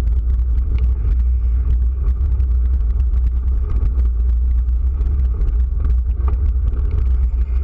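Steady low rumble of wind and road noise on the microphone during a bike ride, with many small ticks and rattles throughout.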